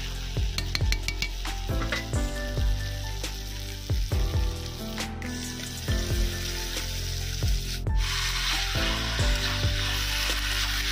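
Chicken frying and sizzling in a wok, the sizzle growing louder about eight seconds in. Background music with a steady kick-drum beat plays under it.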